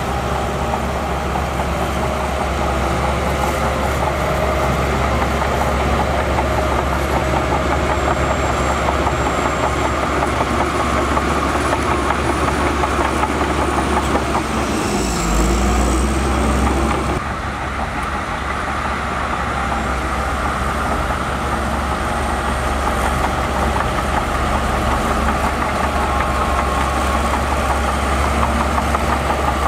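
Heavy diesel earthmoving machinery running steadily under load. The engine note dips briefly about fifteen seconds in, and the sound changes abruptly about two seconds later.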